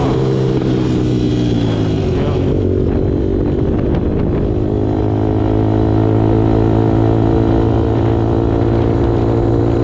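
Suzuki RM-Z250's four-stroke single-cylinder dirt bike engine running, its pitch dropping over the first couple of seconds as it eases off, then holding steady.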